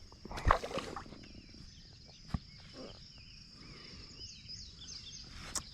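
Birds chirping, with a steady high insect drone beneath. A few brief knocks, the loudest about half a second in.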